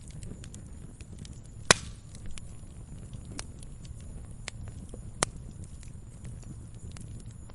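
Wood fire burning in a fireplace: a low steady rumble of flames with scattered crackles, and a sharp loud pop about two seconds in and another about five seconds in.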